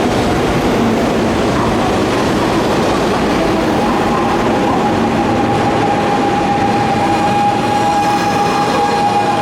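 Hanshin electric train moving along a station platform: a steady rumble of the running train, with a high steady tone coming in about four seconds in and growing stronger toward the end.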